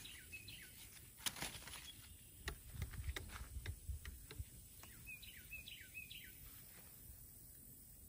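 A small bird chirping outdoors: two short chirps at the start, then a quick run of about four falling chirps about five seconds in. Faint clicks and rustles of leaves and twigs as a fig is picked.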